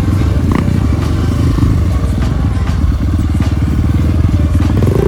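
Trail motorcycle engine running steadily with a fast, even pulsing rumble, with a few short clicks and knocks over it.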